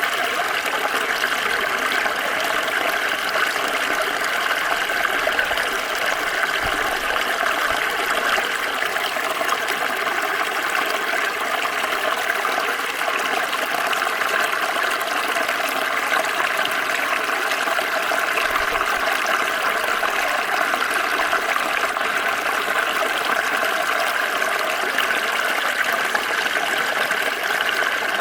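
Water flowing steadily over stones in a small stream, a continuous rushing and trickling.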